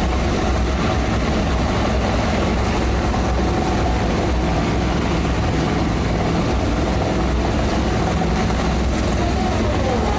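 Steady, loud engine drone with a deep low hum under a wide hiss, holding even throughout.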